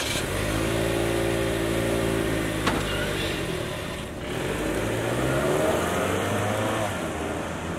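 2024 Toyota RAV4 TRD Off-Road's 2.5-litre four-cylinder gas engine as the SUV pulls away from a standstill. The engine note holds steady for a couple of seconds, then climbs in pitch as it accelerates away, with a short click in between.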